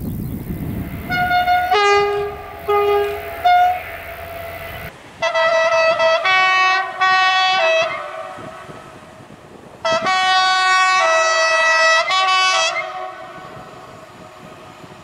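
Locomotive horns sounded as a string of notes at changing pitches, played like a little tune. First come several short blasts over a low rumble. After a cut at about five seconds, another horn gives two groups of longer blasts a couple of seconds apart.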